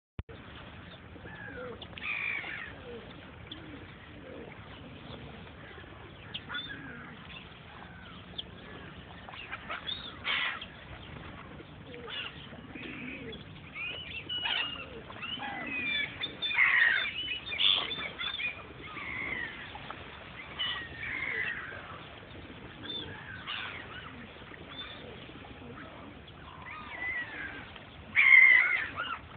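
A flock of gulls calling, many short overlapping cries one after another, with the loudest burst of calls near the end.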